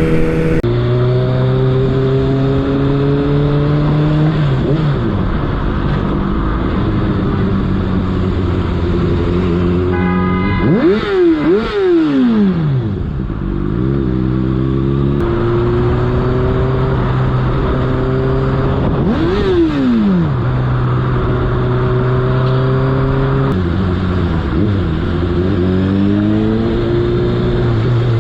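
A motor vehicle's engine pulling through the gears: its note climbs steadily for a few seconds, then falls back at each shift, with a quick drop and rise of revs about eleven seconds in.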